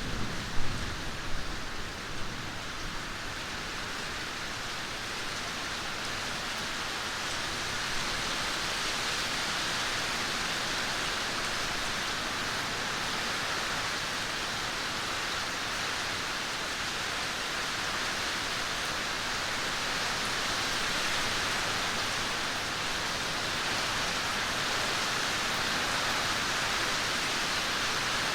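Steady heavy rain falling, an even hiss. A few low thumps stand out in the first two seconds, and the rain grows slightly louder from about eight seconds in.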